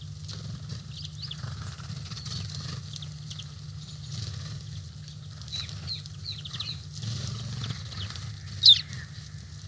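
Small birds chirping and calling around a woodland feeder over a steady low hum, with many short, high chirps and one loud, brief call sliding downward near the end.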